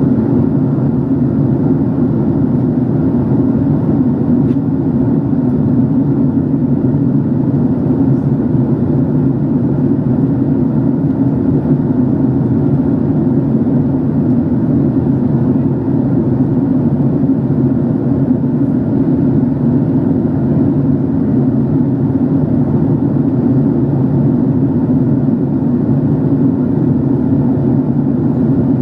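Steady low cabin drone of a Boeing 767-381 airliner in flight, jet engine and airflow noise heard from a passenger seat, even and unchanging.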